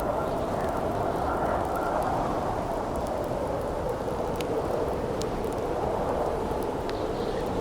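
Steady blizzard wind with a low wavering howl, over a campfire giving occasional sharp crackles and pops.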